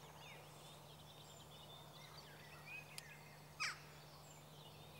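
Faint birdsong: many short, falling chirps, with one louder, sharp descending call about three and a half seconds in, over a steady low hum.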